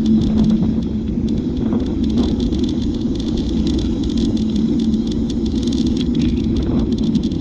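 A bike in motion: a steady rumble of riding with a low hum, and frequent light rattling clicks throughout.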